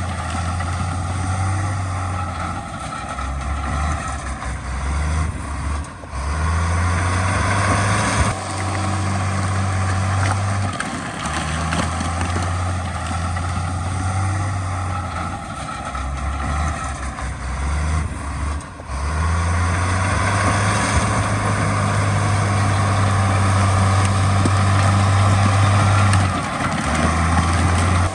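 Heavy diesel engine of earthmoving machinery running under changing load, its low hum stepping between pitches, with brief dips about six seconds in and again near eighteen seconds.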